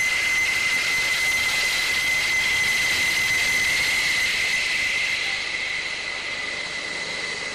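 Jet engine running at high power: a loud steady rush with a high steady whine over it, easing slightly in the last couple of seconds.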